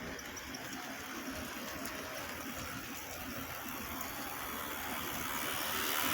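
HO-scale model train running on the layout track, a steady rushing noise of motor and wheels on rail that grows louder over the last couple of seconds.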